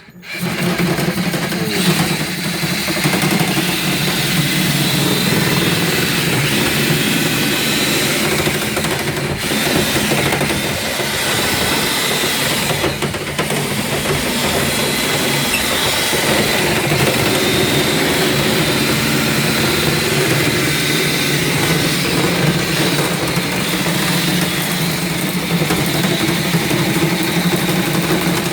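Electric drill running steadily, spinning a dryer-vent cleaning brush on flexible fiberglass rods inside the vent duct, with broad scraping noise from the brush in the pipe. It starts suddenly and holds a steady level.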